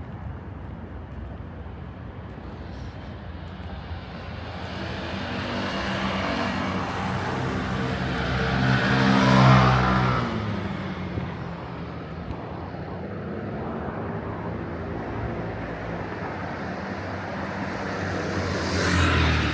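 A motor vehicle driving past close by on a city street, its engine growing louder to a peak about halfway through, then dropping in pitch as it goes away. Another vehicle comes up near the end.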